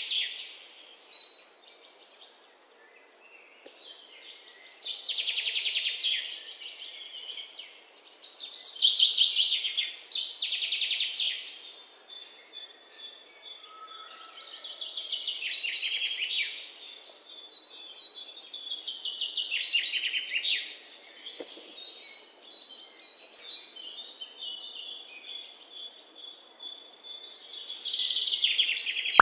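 Birds singing in repeated high, rapidly trilled phrases of a couple of seconds each, coming back every few seconds over a steady faint hiss.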